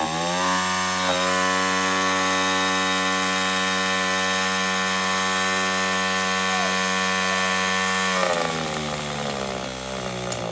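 Chinese dirt bike engine running flat out at full throttle, held at one high pitch for about eight seconds, then the revs fall away and it winds down near the end. It is being run wide open on purpose to blow it up, and it is starting to die rather than stay running.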